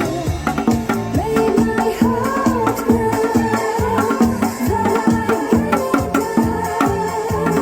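Korean janggu (hourglass drum) struck fast and freely in time with an upbeat disco-style backing track; dense drum strokes run under a steady keyboard melody.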